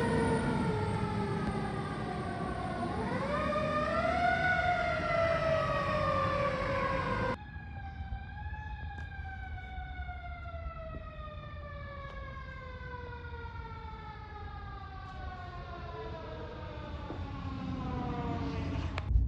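Pierce Velocity fire engine's siren on a response, its pitch falling slowly, briefly rising again about three seconds in, over a low engine rumble. The sound drops suddenly about seven seconds in, then another long, quieter falling siren tone follows.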